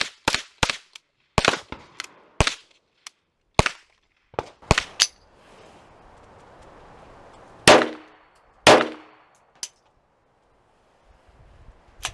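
Gunshots from a firearm: quick shots about three a second that slow and thin out over the first few seconds. Then come two louder reports about a second apart, each with a ringing tail, and a faint click.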